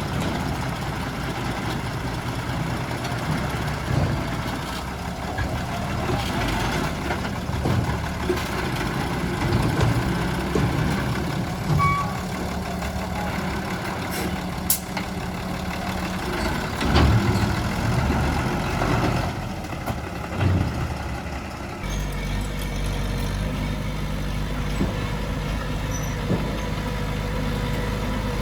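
Heavy diesel earthmoving machinery running steadily under load, with scattered clanks and knocks. The engine sound changes abruptly about three-quarters of the way through.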